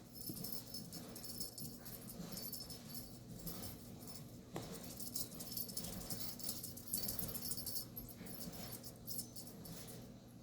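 A cat toy rattling and jingling in irregular short bursts as a kitten plays with it, over a steady low hum.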